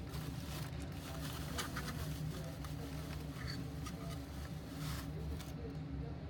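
Hair dryer running with a steady buzzing hum and airy hiss; the hiss drops away near the end.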